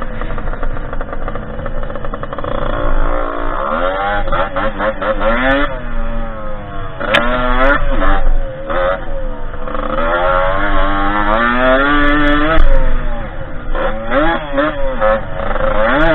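Derbi 50cc two-stroke dirt-bike engine running under riding, its pitch rising with the throttle and dropping back about five times.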